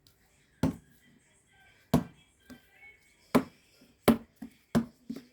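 A basketball being bounced: about five loud thuds at uneven intervals, each with a short hollow ring, and a few softer knocks between them.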